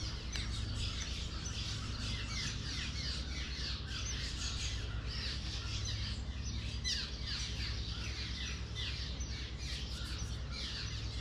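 Many birds calling at once: a dense chatter of short, falling chirps, several a second, over a steady low rumble.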